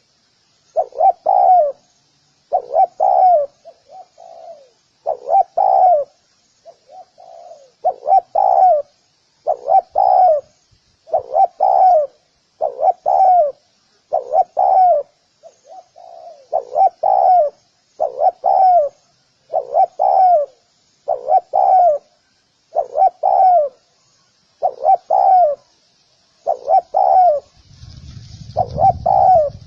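Spotted dove cooing: short phrases repeated about every one and a half to two seconds, with fainter calls in between and faint high chirping behind. A low rumble comes in near the end.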